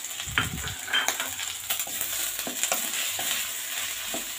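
Ground spice paste sizzling in oil in a wok while a wooden spatula stirs and scrapes against the pan in irregular strokes.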